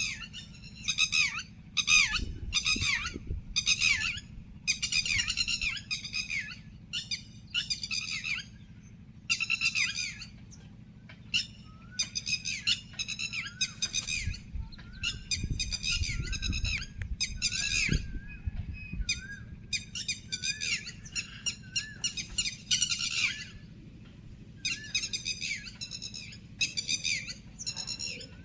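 Birds calling: a long run of short, harsh squawks, repeated again and again, with a softer wavering call in the background through the middle stretch, over a steady low rumble.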